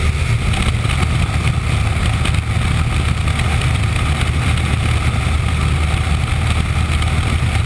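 An engine running steadily at an even pitch, a constant low hum with rushing wind or water noise over it.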